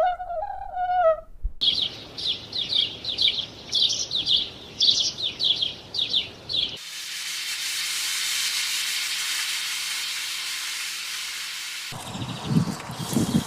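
A series of separate animal sounds with abrupt cuts between them: a pitched honking call ends about a second in, then rapid high-pitched bird chirping for about five seconds. A steady hiss follows for about five seconds, and low, irregular animal sounds start near the end.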